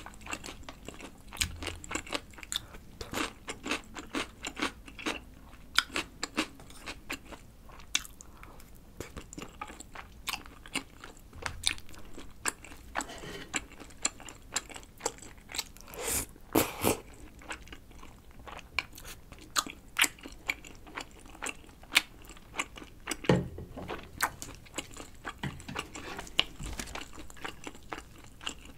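Close-miked eating of crispy fried chicken in red sauce: biting and chewing with many sharp, irregular crunches throughout, with softer chewing of rice cakes partway through.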